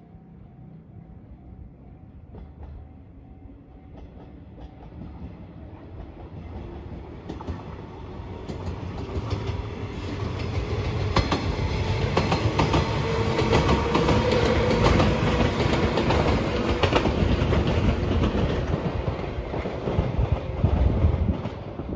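A JR 115 series electric multiple unit approaching and passing close by, growing louder through the first half. A hum rises in pitch as it nears, then the wheels clatter over rail joints as the cars go by.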